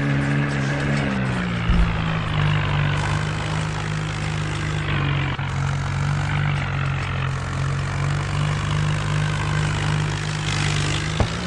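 Swaraj tractor's diesel engine running steadily, its pitch settling slightly lower about a second in and then holding even.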